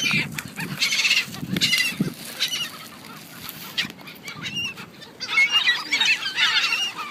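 Seagulls calling in short, repeated cries: several calls at the start, a lull in the middle, then a dense run of overlapping calls near the end.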